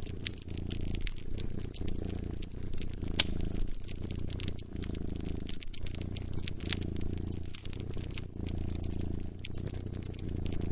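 A cat purring in a steady low rumble that swells and eases about once a second with each breath, mixed with a wood fire crackling in scattered sharp pops.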